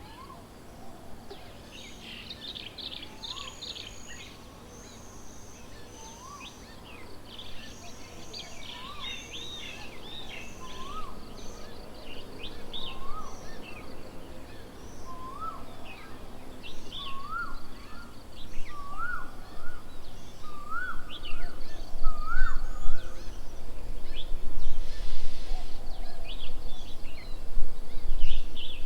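Birds calling: one bird repeats a single upslurred whistled note about every second and a half, climbing in pitch and coming faster, over many quick high chirps from smaller birds. A low rumble swells in during the last few seconds.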